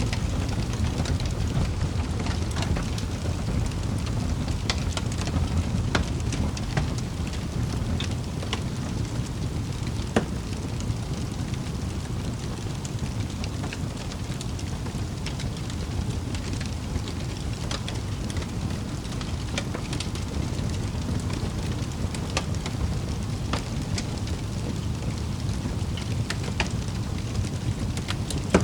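Log fire burning steadily in a fireplace, a low rushing rumble of flames with irregular sharp crackles and pops from the wood.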